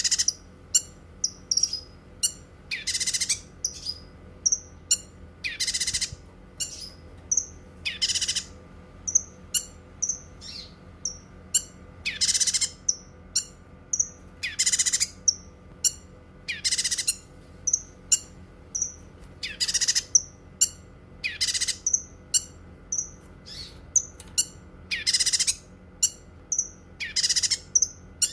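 Cucak kinoi songbird singing: a rapid run of short, high chirps, broken every two to three seconds by a longer, harsh, buzzy call. A faint steady hum runs underneath.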